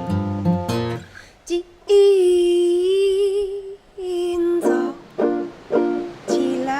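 Acoustic string music: strummed chords that stop about a second in, then one long held note with vibrato, then a run of plucked notes.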